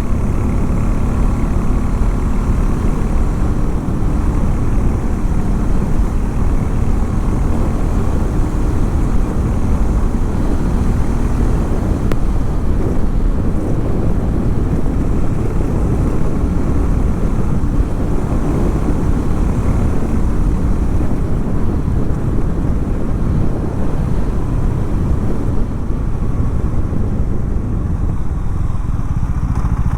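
Harley-Davidson X440 T's 440 cc single-cylinder engine running, loud and continuous; near the end its note settles into a steady, even idle.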